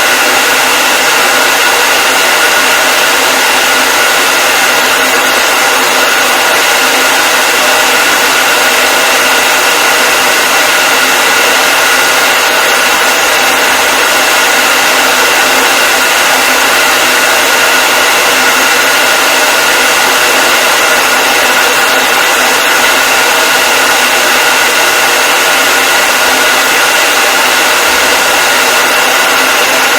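Electric hair dryer running continuously: a steady, loud rushing whoosh of blown air with a fixed motor whine in it that never changes.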